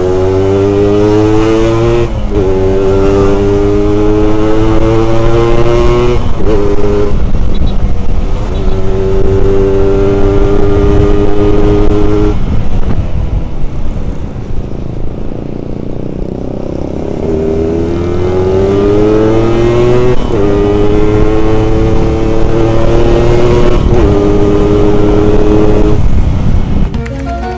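Yamaha RX-King's two-stroke single-cylinder engine accelerating hard through the gears: the pitch climbs in each gear and drops at each shift. It eases off for a few seconds around the middle, then pulls up through several more gears before backing off near the end.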